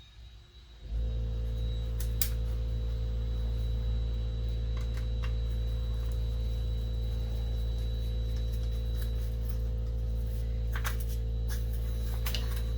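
A steady electrical mains hum switches on suddenly about a second in and holds level, with a few light clicks over it.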